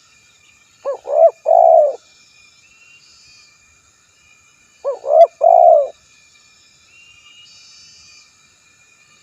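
Spotted dove (tekukur) cooing: two phrases about four seconds apart, each of two short notes followed by a longer purring note.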